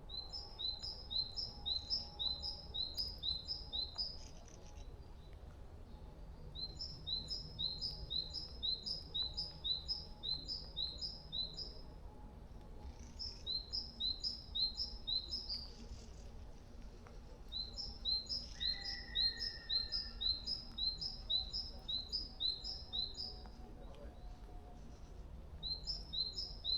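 A songbird singing: phrases of quick, high paired chirps, about two pairs a second, each phrase lasting a few seconds, with short pauses between, and a brief lower whistled note about two-thirds of the way through.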